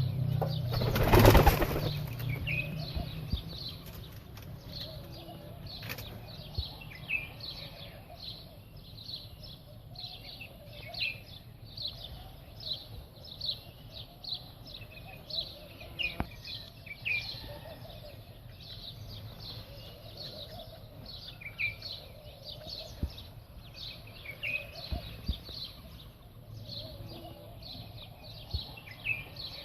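Small birds chirping over and over in short, high notes, with fainter lower calls between them. A brief loud burst of wing flapping comes about a second in.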